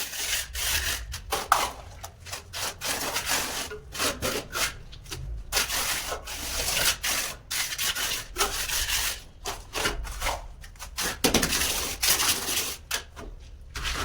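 A hand tool scraping back and forth over a rough hard surface in quick, irregular rasping strokes, the sound of masonry finishing or scraping work.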